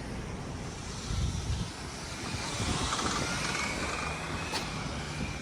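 A passing motor vehicle, growing louder to a peak about three seconds in and then easing off.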